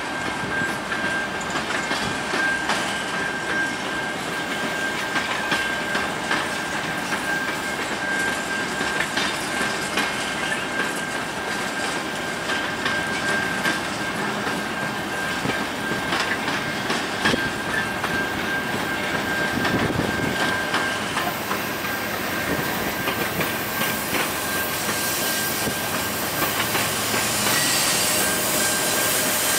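Loaded covered grain hopper cars rolling past, their wheels clicking steadily over the rail joints, with a steady high-pitched wheel squeal over the top. Near the end the rear distributed-power locomotive, a GE ES44AC, comes by and the sound grows louder.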